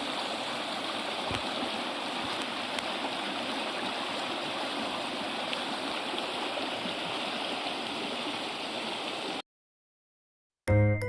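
Steady rushing of running water, like a stream, that cuts off abruptly about nine seconds in. After a second of silence, music with bright, chiming notes starts near the end.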